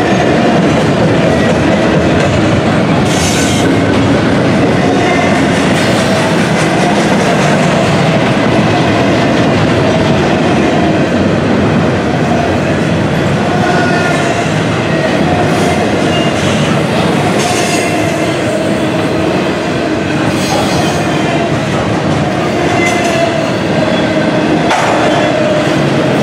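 Double-stack intermodal container well cars rolling past at speed: a loud, steady rumble of steel wheels on rail with a thin squealing tone from the wheels, and several sharp clacks as wheels cross rail joints.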